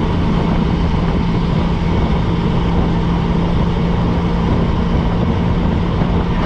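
Car driving at a steady speed, its newly swapped-in engine running with an even drone over road noise.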